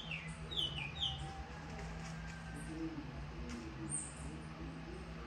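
A bird calling three quick chirps, each falling in pitch, in the first second or so, over a steady low hum.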